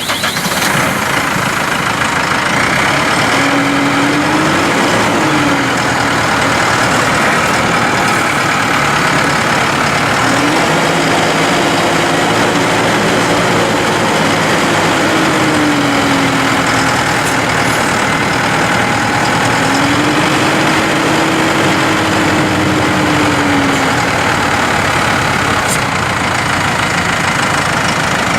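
New Holland T4.75 tractor's diesel engine running steadily, with a tone that slowly rises and falls about four times.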